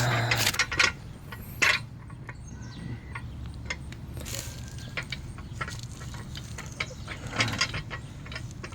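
Scattered metal clicks and knocks of a fork-style motorcycle front stand being handled and its lift pads positioned against the fork legs, with one louder knock early on.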